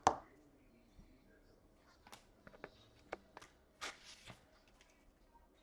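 Trading cards being handled: scattered soft clicks and taps, with a short rustle about four seconds in.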